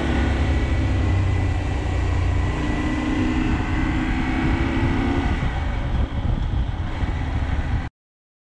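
KTM 790 Adventure's parallel-twin engine running while the motorcycle is under way, with a steady note for about five seconds that then changes. The sound cuts off suddenly near the end.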